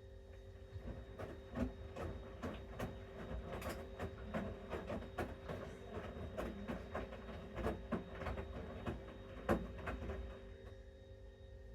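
Bosch Series 6 front-loading washing machine in its main wash: the drum turns for about ten seconds with the laundry tumbling in irregular knocks and clicks, then stops. A steady hum runs underneath.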